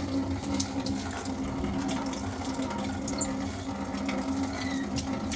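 A small motor running steadily with an even hum, over the rush of water.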